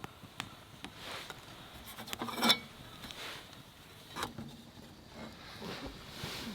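Light rubbing and small clicks and knocks of objects being handled, with one louder ringing clink about two and a half seconds in.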